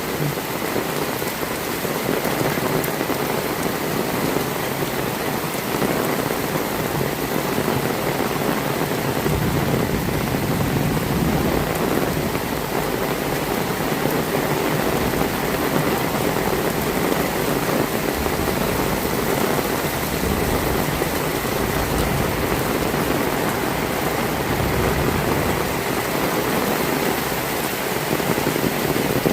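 Heavy rain falling steadily, an even hiss of rainfall on surfaces. A low rumble joins underneath from about nine seconds in.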